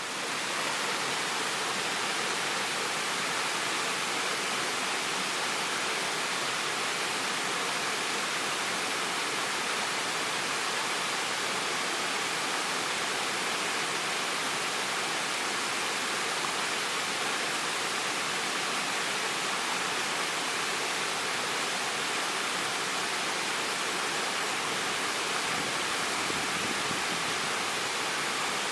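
Waterfall: falling water making a steady, even rush with no changes.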